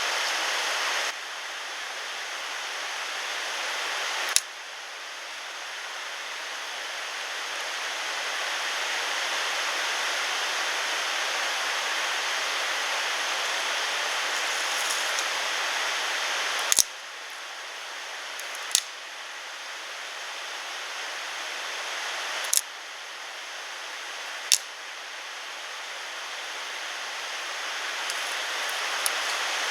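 Steady rushing water noise, like a mountain stream, with a few sharp clicks where the noise steps louder or quieter.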